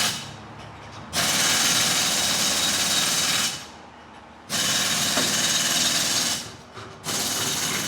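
Pneumatic impact wrench running on a truck's wheel lug nuts during a tire rotation, in three bursts of about two seconds each.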